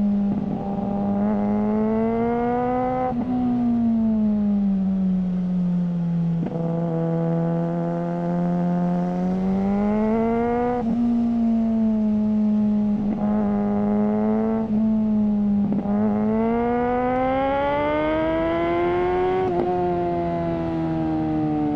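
Suzuki GSR600's inline-four engine through a GPR Ghost aftermarket exhaust under way. The note climbs and falls several times, broken by short steps and clicks that sound like gear changes.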